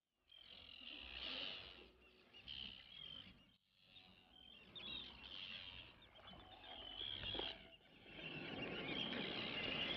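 Birds calling: many short, high chirps, growing busier and louder from about eight seconds in over a steady hiss.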